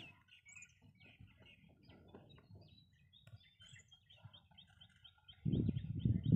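A bird calling with a quick, even run of short high chirps, about four a second, starting about three seconds in. Near the end a louder low rumble comes in under it.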